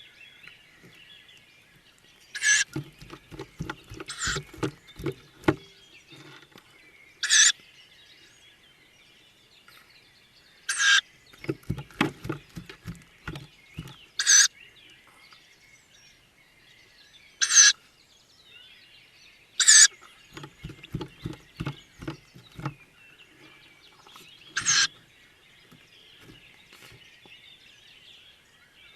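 Tawny owl chicks giving short, harsh, hissing begging calls, about eight in all with pauses of a few seconds between them. Three bursts of low, rapid knocking sound in the box between the calls.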